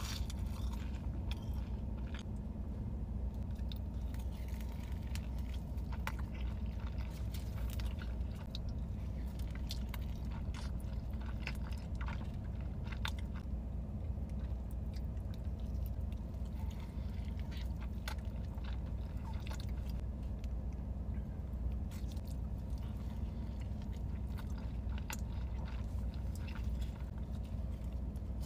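A person chewing and biting food close to the microphone: scattered small crunches and wet mouth clicks over a steady low hum.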